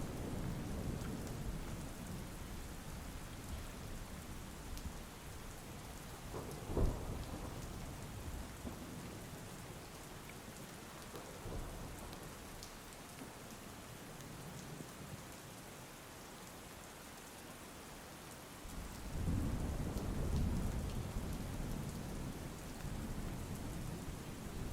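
Rain falling steadily in a thunderstorm. A low thunder rumble at the start fades away, a single sharp crack comes about seven seconds in, and a long, loud rumble of thunder rolls in about nineteen seconds in.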